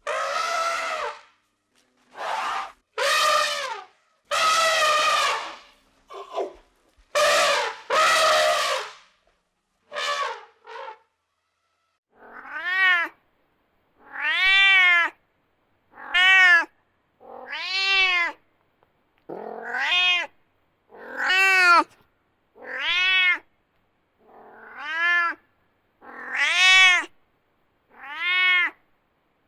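A cat meowing over and over. At first the cries are rough and harsh, then about a third of the way in they become clear meows that rise and fall in pitch, about one every second and a half.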